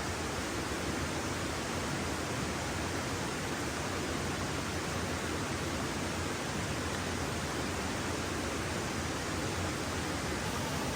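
Steady, even rushing noise with no distinct events in it, like running water, wind or a fire.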